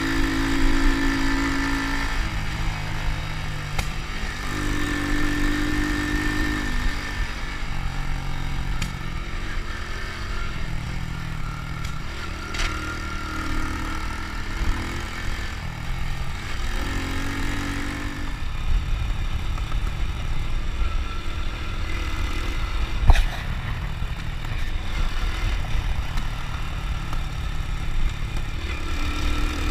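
Honda Win motorcycle's small single-cylinder four-stroke engine running on the move, its pitch rising and falling every few seconds with engine speed, over a steady low rumble of wind and road. A single sharp knock about 23 seconds in is the loudest moment.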